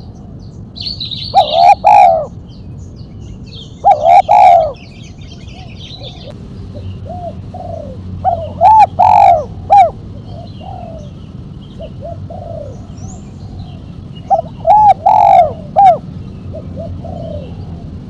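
Spotted dove (tekukur) singing its sharp 'mercik' song: four loud cooing phrases of several quick notes each, spaced a few seconds apart, with softer single coos between them. Faint chirping of small birds runs behind.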